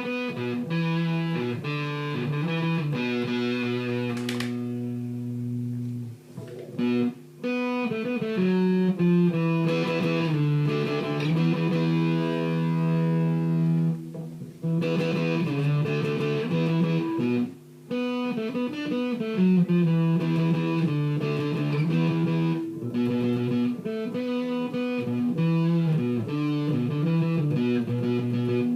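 Electric guitar, a Fender TL52 Telecaster, played through an EarthQuaker Devices Hoof fuzz pedal into a Yerasov Gavrosh amp, playing distorted fuzz riffs. There are a few short breaks between phrases.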